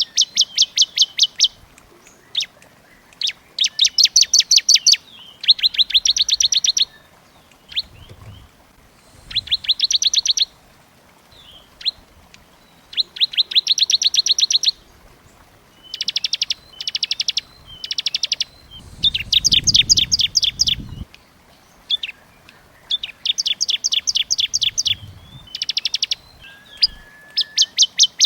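Small songbird singing rapid, dry trills: about a dozen bursts of fast repeated notes, each about a second long, with short pauses between them.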